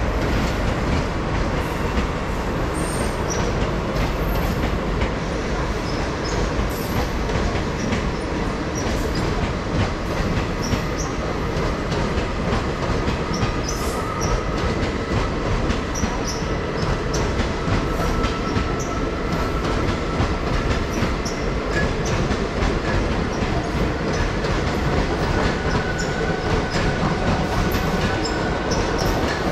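Coaches of a long-distance express train rolling past on the rails: a steady rumble and rattle of wheels on track, with a faint thin wheel squeal in the middle and again near the end.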